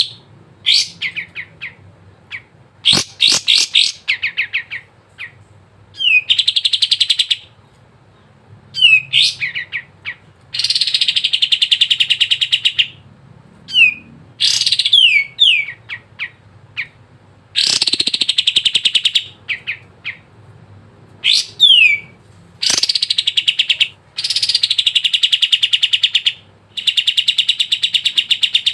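Kapas tembak songbird singing in full, busy song: short runs of quick notes that glide downward, alternating with long, fast rattling trills lasting one to three seconds each, separated by brief pauses.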